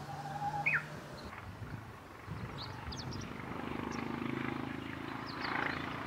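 Wild birds singing: a short held whistle followed by a quick falling note about half a second in, then scattered high chirps, over a faint low hum.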